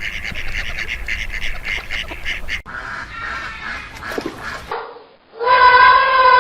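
Animal calls from several short clips joined by hard cuts: first a rapid run of repeated calls at several pulses a second, then a noisier stretch, then near the end one long pitched call that falls in pitch.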